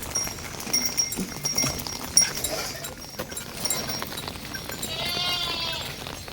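Steady rain pattering, with a goat bleating once, about a second long, near the end.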